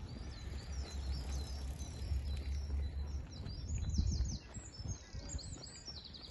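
Small birds singing, with many quick repeated chirps over a steady low rumble on the microphone.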